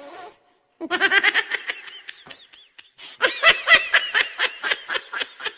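High-pitched laughter in rapid, repeated 'ha-ha' pulses, in two bursts: one starting about a second in and a louder one about three seconds in.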